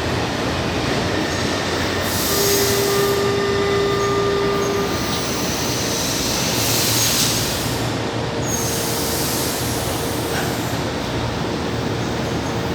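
Metro train running through the station: a steady rumble with a whining tone between about two and five seconds in, thin high wheel squeal, and two bursts of hiss, one about two seconds in and one about seven seconds in.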